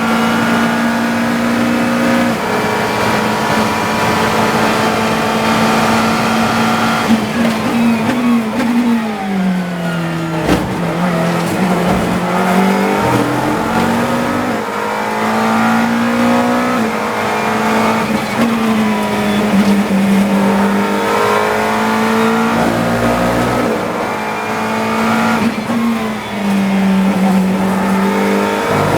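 GT3 race car engine under hard acceleration, heard from inside the cockpit. About eight seconds in the car lifts and shifts down, with a couple of sharp knocks, then climbs back up through the gears, and it lifts again near the end.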